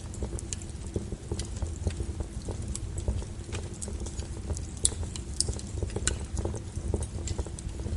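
Firewood fire crackling: irregular sharp pops and snaps, a few louder than the rest, over a low steady rumble of burning.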